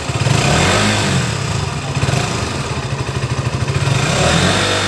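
KTM Duke 200 BS6 single-cylinder four-stroke engine revved by hand on the throttle: it climbs about half a second in, drops back after about a second, and climbs again near the end.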